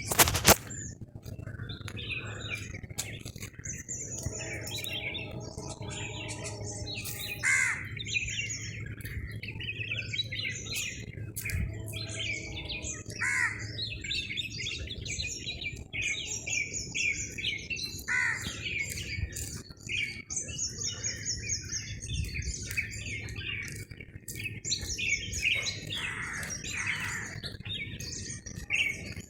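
A mixed chorus of many birds chirping, trilling and calling over one another, with a steady low hum beneath. A sharp knock sounds right at the start.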